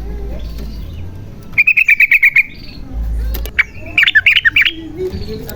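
Yellow-vented bulbul (trucukan) singing: two loud bursts of quick, bubbly chattering notes, the first about a second and a half in, the second about four seconds in.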